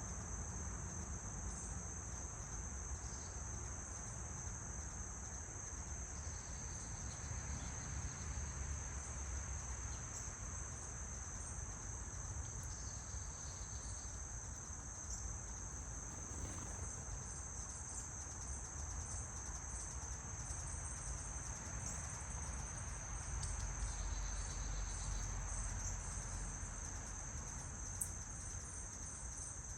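Insect chorus: a steady, unbroken high-pitched trilling, with a low rumble underneath.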